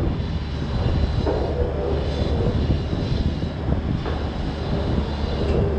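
Gusty wind rumbling on the microphone over a steady engine-like drone, typical of a mobile crane running while it slowly slews a heavy load.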